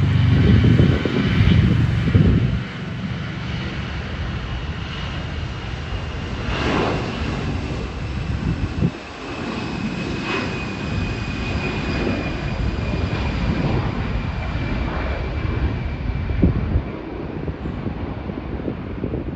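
Jet airliner engines passing: a loud low rumble for the first couple of seconds, then a steady engine noise with a high whine that slowly falls in pitch.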